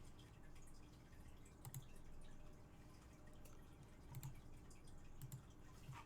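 Near silence: low room tone with a few faint computer clicks scattered through it.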